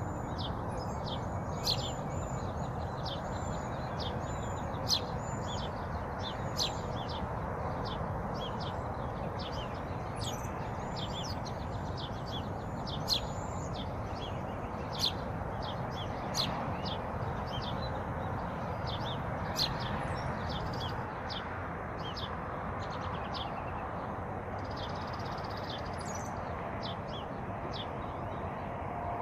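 Small birds chirping in quick, repeated short calls over a steady background hiss, the calls thinning out in the last third.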